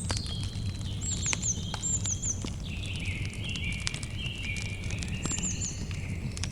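Campfire crackling with frequent sharp pops over a low steady rumble, while birds call with high notes, including short falling notes in groups of three.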